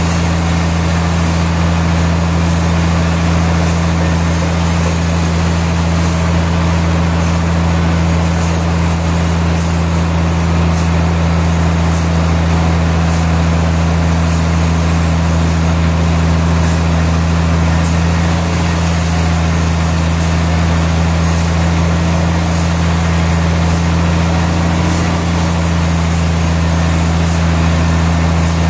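Sawmill machinery running steadily: a constant deep hum with a second hum above it, under an even mechanical rush that does not change.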